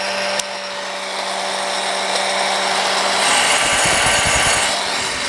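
Vintage Oster Styler Model 370 hair dryer running: a steady motor hum under the rush of air from its metal fan, with a single click about half a second in. Near the end the airflow grows louder and starts buffeting the microphone.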